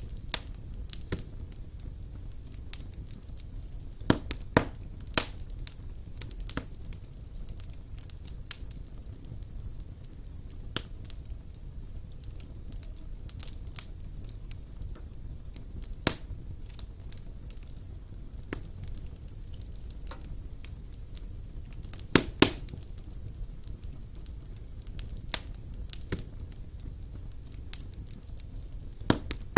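Wood fire burning in a fireplace: a steady low rumble of flame with irregular crackles and sharp pops of the burning logs, a few louder pops standing out.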